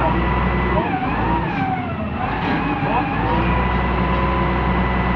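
Heavy diesel machinery engine running with a steady deep hum. Over it a whine wavers up and down in pitch for about the first three seconds, then holds one steady pitch.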